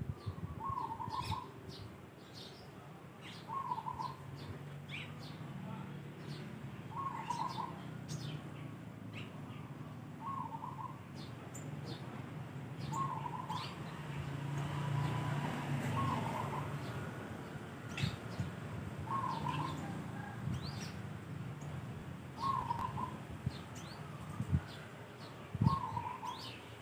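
Birds calling: one bird repeats a short call about every three seconds, with scattered brief high chirps from other birds over a low steady background rumble.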